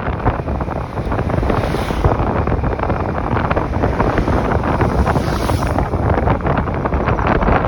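Heavy wind buffeting the microphone of a moving motorcycle, a loud steady rumble with constant fluttering, over the bike's engine and road noise.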